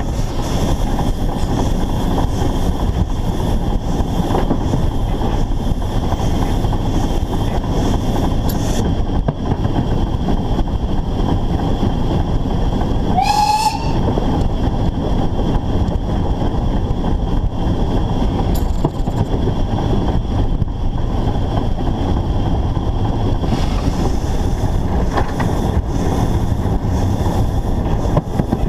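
Narrow-gauge steam locomotive of the Rügen Bäderbahn running on the line, heard up close from on the locomotive as a loud, steady running noise. About halfway through comes a brief rising high tone.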